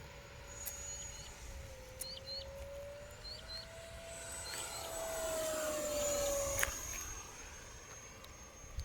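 Electric ducted-fan model jet flying, its fan whine swelling to a peak about six seconds in and then dropping in pitch and fading as it passes. Birds chirp in short pairs in the background.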